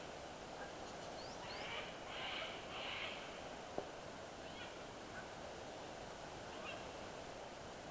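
A bird calling harshly, three short rasping notes in quick succession about one and a half seconds in, over a faint steady hiss of outdoor background. A few faint chirps and a single sharp click follow.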